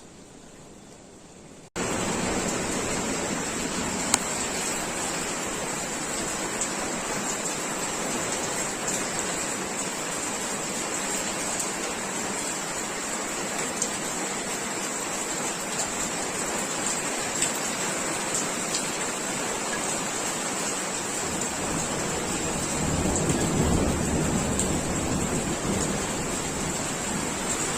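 Steady rain shower falling, quiet at first and then abruptly much louder a little under two seconds in. Near the end a low rumble of distant thunder swells up under the rain.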